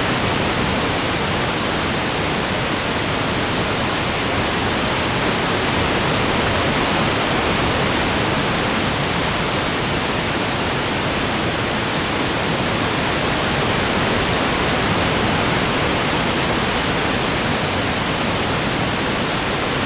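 Steady, even wind-like noise presented as mountain wind, holding one level throughout with no gusts or swells.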